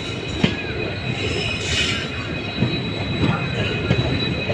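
Train moving along the track: wheels rumbling and clattering over the rails, with a steady high-pitched wheel squeal and a sharp clank about half a second in.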